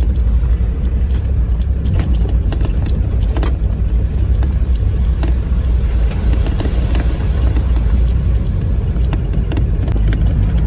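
Off-road vehicle driving over rough ground: a steady low engine and tyre rumble with scattered knocks and rattles.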